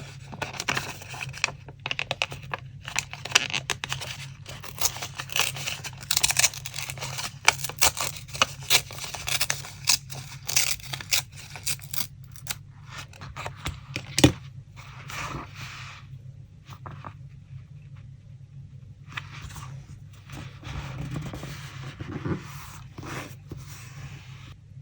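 Paper being handled for a collage: dense scraping, tearing and crinkling for about twelve seconds, a single sharp tap about fourteen seconds in, then quieter, sparser rustling.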